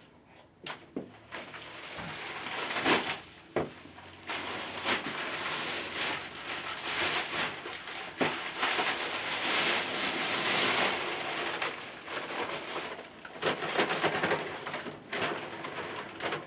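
Irregular gritty scraping and crunching from hand work on concrete and fill, broken by scattered sharp knocks; the scraping is heaviest for a few seconds past the middle.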